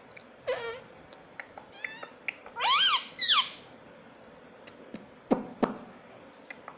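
Indian ring-necked parakeet calling: a handful of short, high, pitch-gliding calls, the loudest two close together about three seconds in, with scattered sharp clicks between them.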